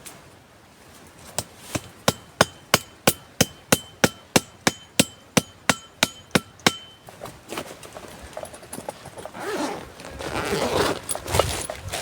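A quick run of about seventeen sharp blows, roughly three a second, from a metal tool striking wood, each blow ringing with the same metallic tone. The blows stop about seven seconds in and give way to rustling and crunching.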